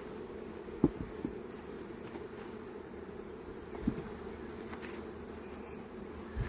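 Honeybee swarm buzzing, a steady dense hum, with a couple of brief knocks about a second in and near four seconds.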